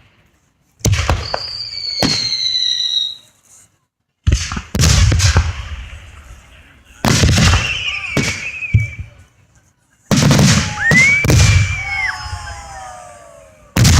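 Fireworks going off in quick bangs, with high whistling tones sliding in pitch. The sound comes in several stretches, each starting suddenly and fading out, with short silent gaps between them.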